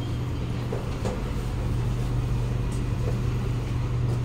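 Cabin of a Kawasaki Nippon Sharyo C751B metro car: a steady low hum from the train's on-board equipment over a background of noise, with a few faint ticks. The train stands at the platform just after the arrival announcement.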